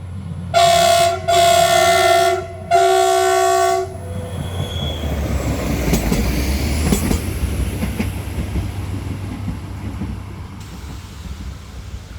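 Train horn sounding three blasts in quick succession, then the rumble of the train passing over the level crossing, building for a few seconds and fading near the end.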